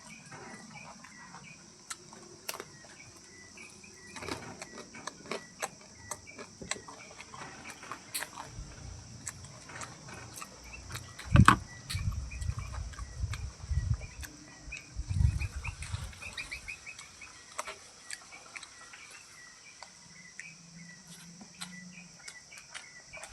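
Steady high insect drone with short bird chirps and many scattered clicks. A few low thumps and rumbles come about halfway through.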